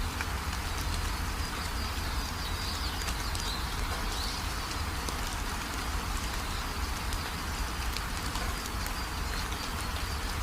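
Steady rainfall, with scattered ticks of single drops and faint high bird chirps over it.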